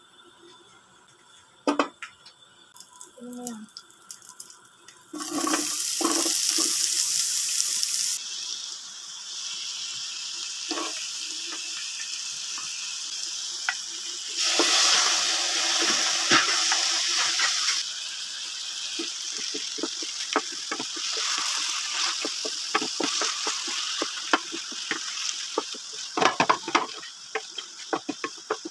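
Chopped onion and garlic sizzling in sesame oil in a nonstick pan, starting suddenly about five seconds in as the food hits the hot oil. The sizzle flares up again about halfway through as chopped tomatoes go in, and a spatula clicks and scrapes against the pan near the end.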